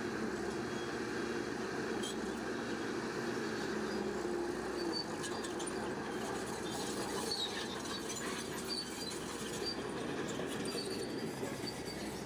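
Crawler bulldozer working, its diesel engine running steadily, with short high squeaks from the tracks in the second half.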